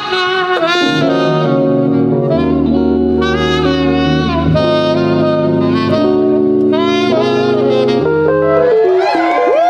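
Smooth-jazz saxophone playing a melody over sustained keyboard chords and bass, ending on a long held high note with bends near the end.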